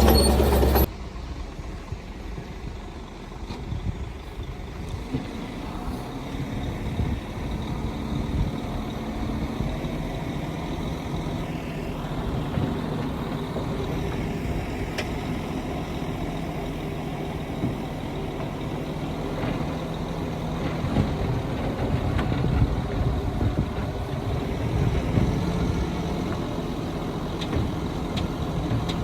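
Heavy diesel earthmoving machinery running steadily at a worksite, a low engine drone that grows a little stronger about five seconds in. A louder sound at the very start breaks off suddenly under a second in.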